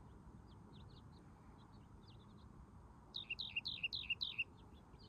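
A songbird calling: scattered short, high chirps, then about three seconds in a louder run of six quick two-note phrases, roughly four a second, over a steady low background rush.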